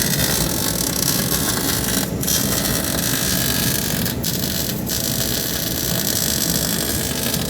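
Steady rushing wind and road noise of a vehicle on the move, with no distinct engine note standing out. The treble drops out briefly a few times.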